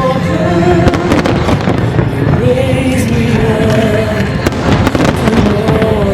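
Fireworks bursting and crackling in repeated volleys of bangs, with loud instrumental music playing at the same time.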